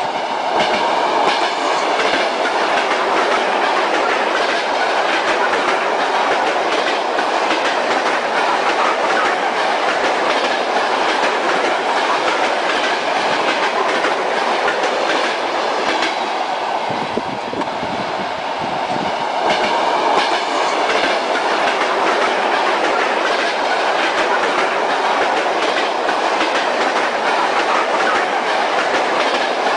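Moving train: the wheels clack over the rail joints against a steady rumble of the running carriage. The sound eases slightly a little past the middle, then comes back.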